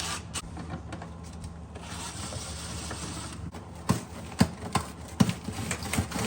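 A wrench working on refrigerator fasteners, making mechanical clicks. There is a short hiss about two seconds in, and several sharp knocks follow from about four seconds in, over a steady low hum.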